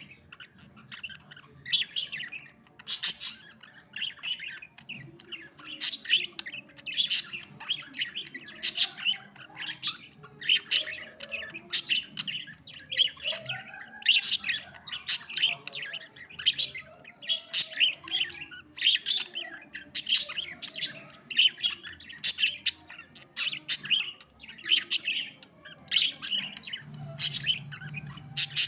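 Budgerigars chirping and squawking, short calls several times a second, one on another.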